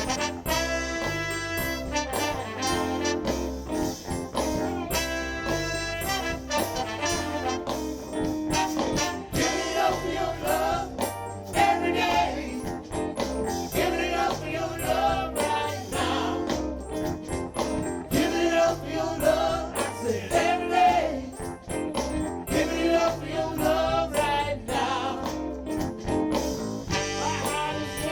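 Live ten-piece soul band playing an instrumental passage: a horn section over a steady bass line, with a wavering lead line in the middle.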